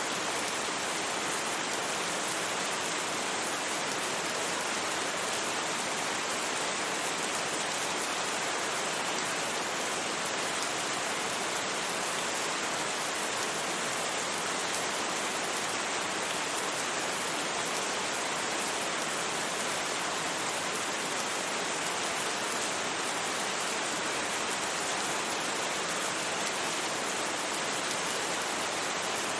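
Steady rain, an even unbroken hiss with no thunder and no change in level.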